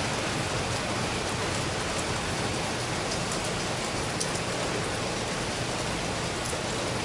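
Steady rain falling on wet stone paving, an even hiss with a few sharper drip ticks.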